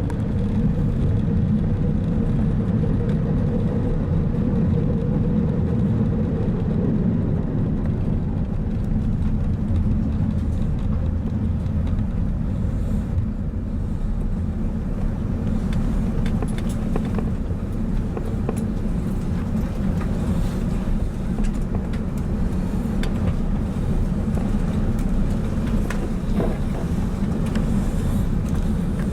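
Steady low rumble inside the cabin of an Airbus A380 around landing at the end of the flight, with a faint hum that fades out about six seconds in and a few light knocks later on.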